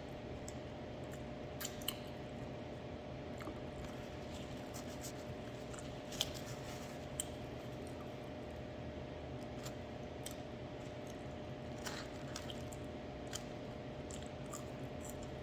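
A person chewing food with wet mouth clicks and small smacks every second or two, over a steady background hum with a faint constant tone.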